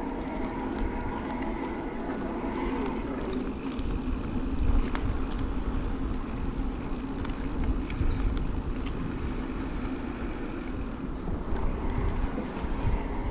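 Riding noise on a moving bike: wind rumbling on the microphone over steady tyre and road noise. The wind rumble grows heavier about four seconds in.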